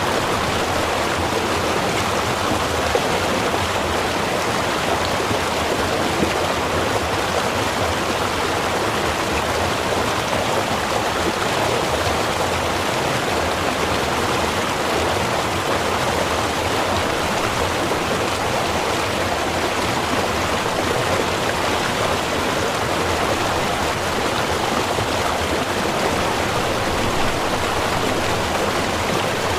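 Small river running, a steady, even rush of flowing water with no breaks or distinct events.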